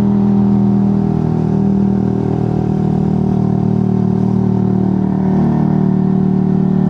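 Motorcycle engine running steadily while riding, over a haze of wind and road noise. The engine note eases a little and then rises again about five seconds in.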